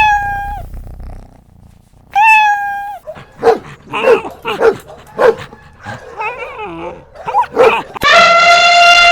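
A dog yelping and barking. There are two short high yelps, then a quick run of barks, then a long drawn-out high call that starts near the end.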